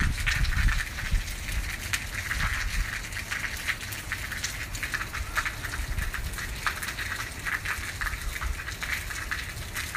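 Rain falling steadily, a dense irregular patter of drops, over a low unsteady rumble.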